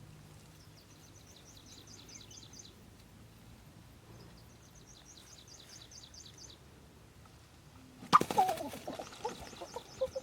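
Small birds chirping in two quick runs of high notes, each lasting about two seconds. About eight seconds in, a sudden loud clatter followed by pitched, wavering calls.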